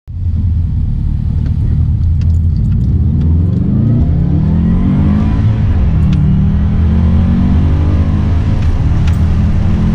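Subaru WRX engine accelerating hard: the pitch climbs, falls back at a gear change about five and a half seconds in, then climbs again before cutting off suddenly.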